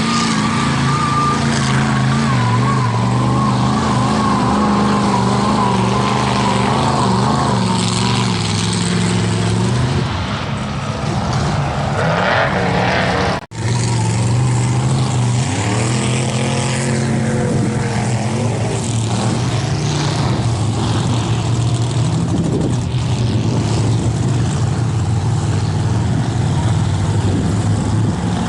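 Engine of a Bronco mega truck running hard under load in deep mud, its revs rising and falling. There is one sudden, very short break about halfway through.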